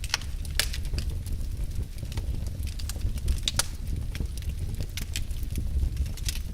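Wood logs burning in a fireplace: a steady low rumble of flames with irregular sharp crackles and pops.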